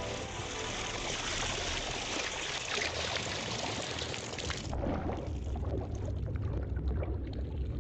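Seawater splashing and pouring, a steady hiss for about four and a half seconds, then turning duller with a low rumble underneath.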